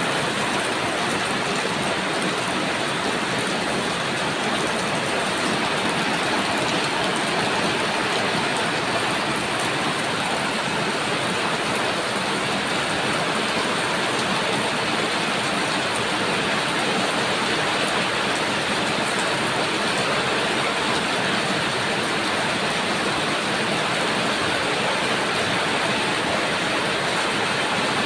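Heavy rain pouring down: a steady, even rush of water that neither swells nor breaks.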